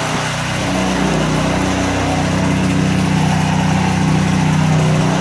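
Small gas engine of a consumer pressure washer running steadily. Its note shifts about a second in, then holds.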